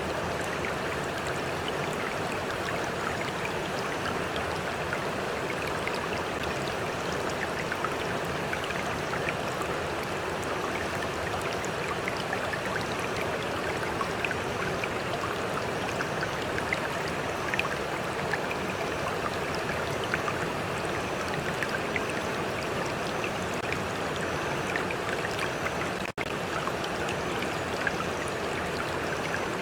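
Small stream flowing in a steady rush of water, flecked with little splashes and drips. Near the end the sound cuts out for an instant.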